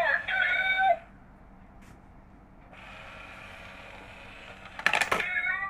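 Cat-stealing-coin bank toy working: its small motor whirs steadily for about two seconds, then a quick clatter of clicks as the cat's paw sweeps the coin into the box. Short pitched, voice-like sounds come just before and right after.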